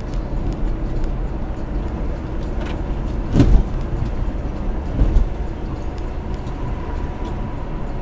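Steady low rumble of a moving car's engine and road noise, with two dull knocks, about three and a half and five seconds in.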